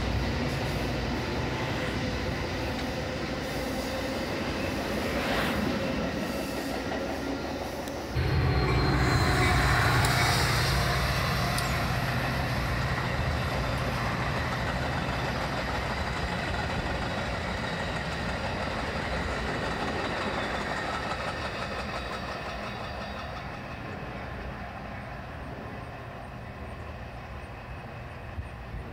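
Metra commuter trains passing: the steady rumble of bilevel coaches' steel wheels running over the rails. It jumps abruptly louder about eight seconds in, then gradually fades as the train moves away.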